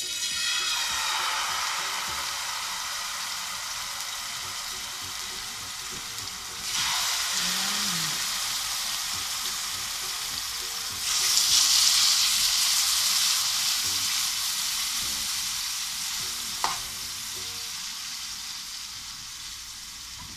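Marinated chicken breast pieces sizzling in hot olive oil in a frying pan. The sizzle starts abruptly as the first piece goes in and jumps louder about seven seconds in and again about eleven seconds in as more pieces are laid in, then slowly eases. A single sharp tick sounds about three-quarters of the way through.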